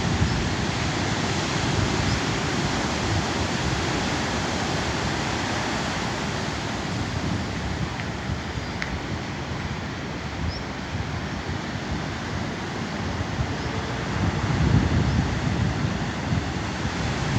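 Sea surf washing on the shore, a steady rushing noise, with wind buffeting the microphone in gusts that are strongest near the end.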